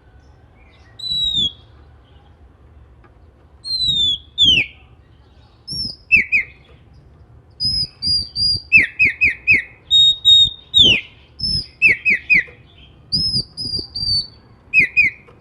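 Oriental magpie-robin singing a string of clear whistled phrases: downward-sliding whistles, quick runs of three or four short notes, and higher thin notes, with short pauses between phrases.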